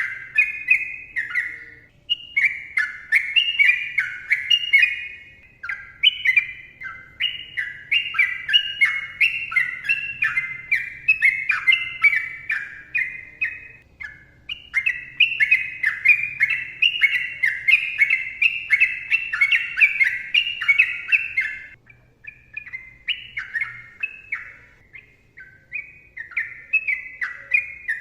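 Sooty-headed bulbul (trucukan) singing long, rapid runs of short warbling notes that rise and fall in pitch, breaking off briefly a few times.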